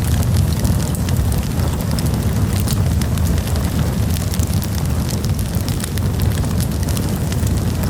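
Campfire burning, with a steady low rumble of flames under many quick, irregular crackles and pops.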